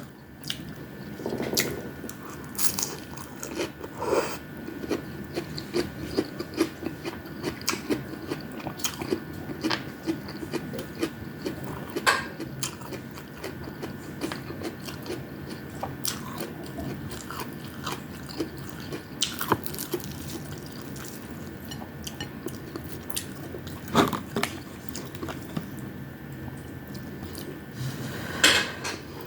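Close-up sounds of a person chewing and biting fried fish, rice and lettuce, with irregular crunches and wet mouth clicks, a few louder crunches near the end.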